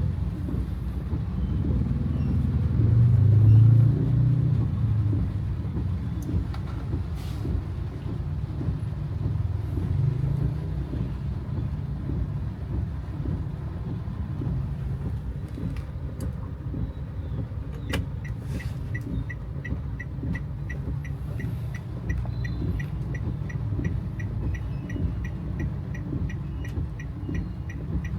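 Car engine and road rumble heard from inside the cabin, swelling briefly a few seconds in. About two-thirds of the way through there is a click, then a steady, rapid ticking like a turn-signal indicator.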